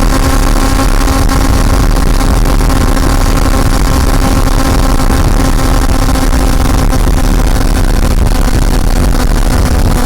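Honda CB400 Super Four's inline four-cylinder engine running at steady revs under way, its pitch holding level throughout, over a heavy low rumble.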